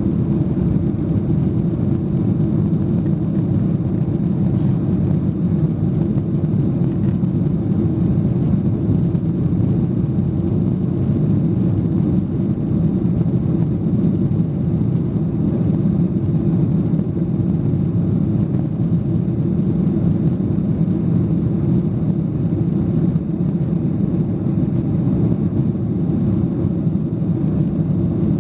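Steady low rumble inside the cabin of a Boeing 737-800, heard from a window seat over the wing: the airliner's CFM56-7B jet engines running with the airframe, at an even pitch and level throughout.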